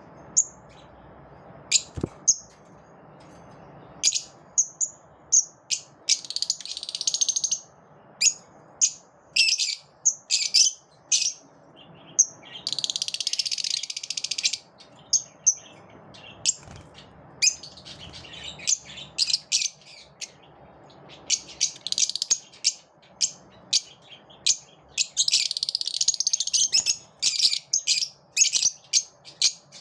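Lovebirds chirping: a run of short, sharp, high-pitched chirps, broken by stretches of rapid continuous chattering about six, thirteen and twenty-five seconds in.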